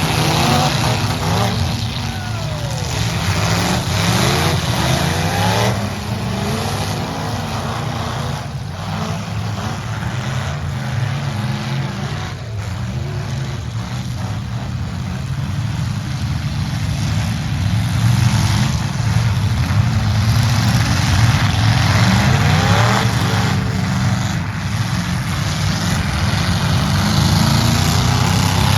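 Engines of several demolition derby trucks running hard and revving, their pitch rising and falling again and again, with a few short knocks among them.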